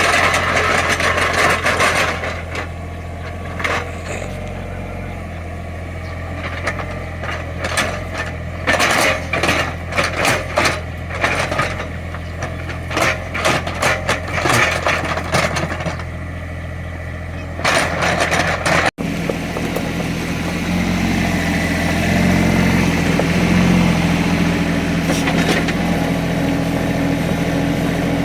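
Small Cat excavator's diesel engine running steadily, with repeated clanks and scrapes as it digs soil. About two-thirds of the way through the engine runs louder and steadier, working under load.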